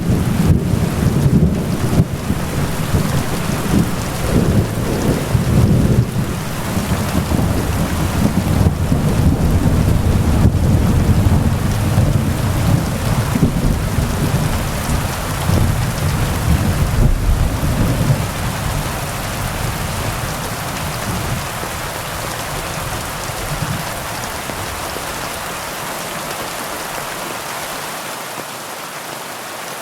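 Heavy rain falling steadily, with a deep rolling rumble of thunder underneath that fades away about two-thirds of the way through.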